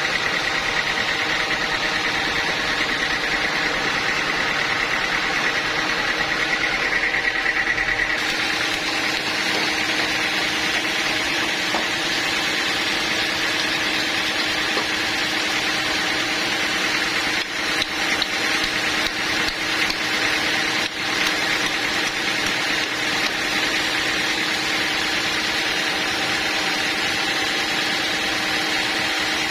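Sawmill machinery running steadily, its tone shifting about eight seconds in as a higher hiss fills in.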